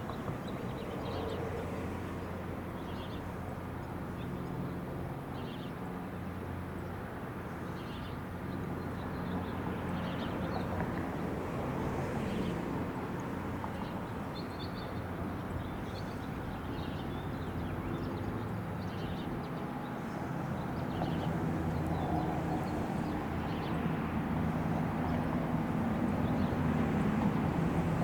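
Steady low drone of a running vehicle, growing louder toward the end, with short high chirps every second or two.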